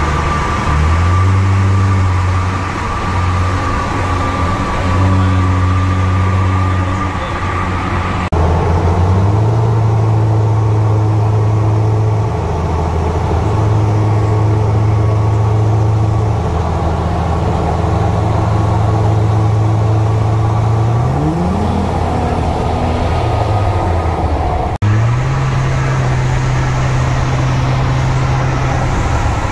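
Vehicle driving noise with a deep bass hum that holds steady pitches and jumps between them every few seconds, sliding upward once about two-thirds of the way through. The sound cuts abruptly twice.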